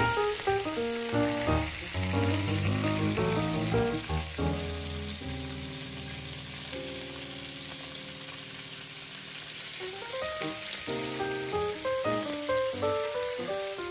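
Razor clams frying in olive oil with garlic and parsley on a griddle pan, a steady sizzle. Background music plays over it, busy at first, with long held chords in the middle stretch before the notes pick up again.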